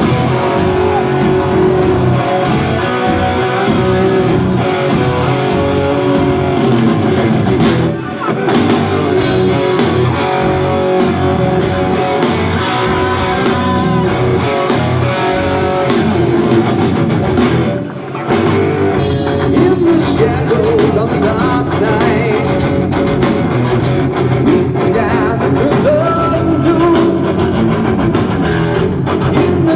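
Live rock band playing loud, with electric guitar, drum kit and a singer, heard as recorded from the audience, with short breaks in the sound about 8 and 18 seconds in.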